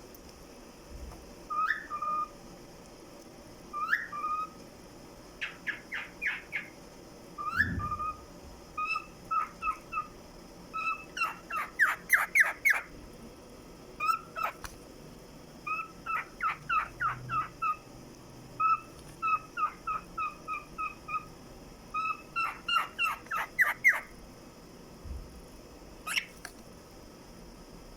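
Pet cockatiel singing: phrases of short chirped whistles and upward-sweeping notes, some in quick runs, with short pauses between phrases.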